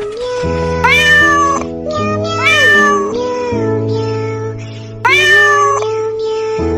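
Three cat meows, each rising then falling in pitch, over background music with a held melody note and changing chords.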